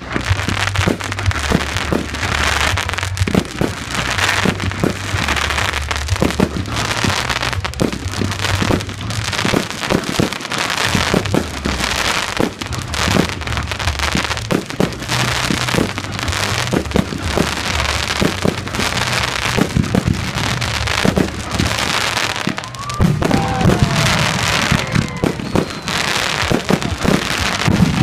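Fireworks display going off nonstop: a dense stream of crackling and popping bursts over a low rumble of booms.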